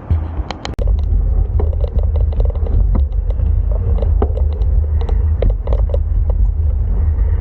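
Heavy wind rumble on the microphone while riding a bicycle, starting suddenly and then holding steady, with many sharp clicks and rattles over it.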